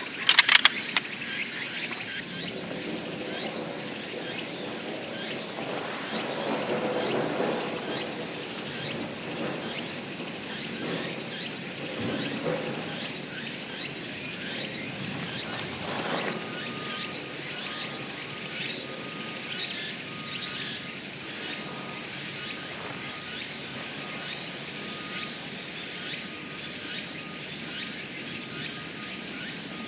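Insects shrilling steadily in a dense chorus, with scattered small knocks and rustles of handling. A short clatter sounds right at the start.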